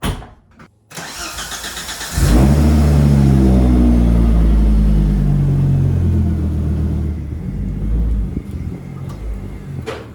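Volvo 740 with a swapped-in T5 turbo five-cylinder engine being started: a click, the starter cranking for about a second, then the engine catches about two seconds in and runs loud and steady at a fast idle before easing down somewhat.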